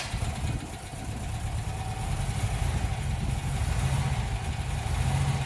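Freshly rebuilt Volkswagen WBX 2.1 water-cooled flat-four engine running steadily at idle, just after catching on its first start.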